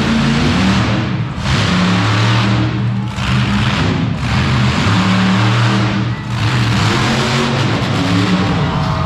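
Monster truck engine revving hard, the throttle lifting and opening again several times, with music playing underneath.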